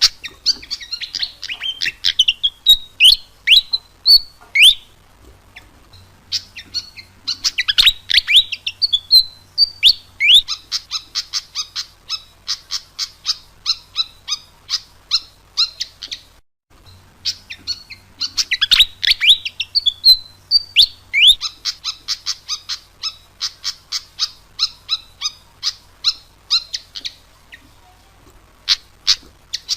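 Malaysian pied fantail (sikatan kipas) singing vigorously, as a bird-lure recording. Bouts of quick sweeping whistles run into long trains of short, sharp, high notes, and the same phrase sequence repeats after a brief pause about 17 seconds in.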